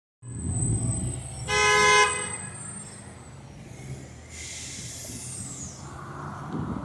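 A fire truck's horn blasts once for about half a second, over the low rumble of engines in traffic. A few seconds later there is a short hiss with a falling whistle.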